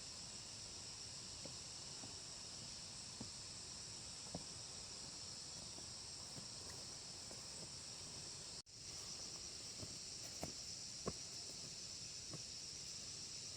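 Faint outdoor ambience of insects droning steadily at a high pitch, with a few light ticks and snaps scattered through it, the sharpest about eleven seconds in. The sound drops out for an instant at about nine seconds in.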